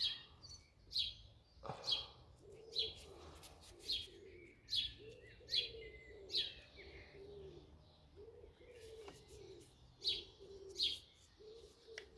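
Birds calling: a small bird chirping repeatedly, about once a second, with a lower, repeated cooing of a pigeon running under it from about two seconds in.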